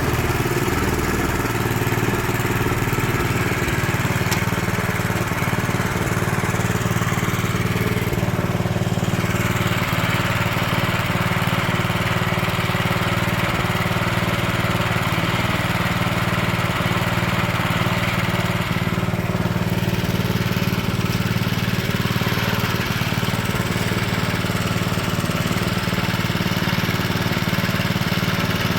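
A small engine running steadily at an even speed, without revving.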